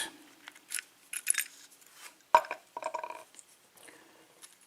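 Small metal lock parts clicking and clinking as a piece is worked out of an opened pin-tumbler lock by hand, with one sharp click about halfway through followed by a short ringing clink.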